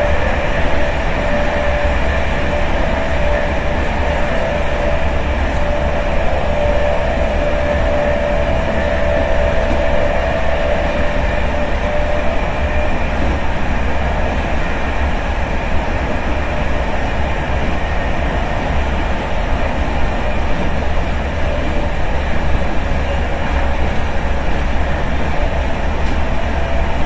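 Intercity train heard from inside a passenger carriage while running: a steady low rumble of wheels and running gear, with a faint whine that fades out about ten seconds in.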